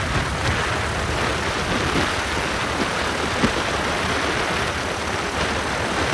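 Steady rushing noise of riding a motorbike: wind on the microphone and road and engine noise, with no clear pitch.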